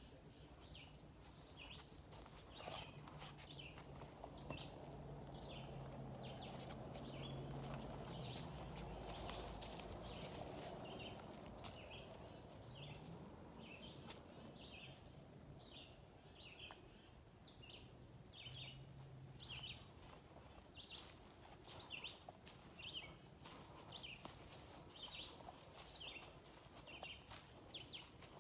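A bird chirping over and over, a short high call about once a second. A low motor hum comes and goes underneath, with faint footsteps on the trail.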